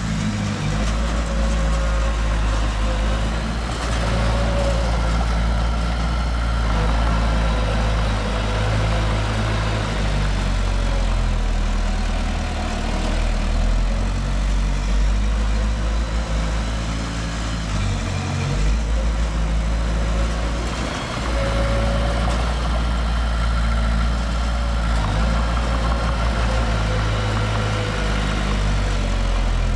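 Heavy diesel engine of earthmoving machinery running steadily, with a deep low hum that briefly drops twice a little after the middle.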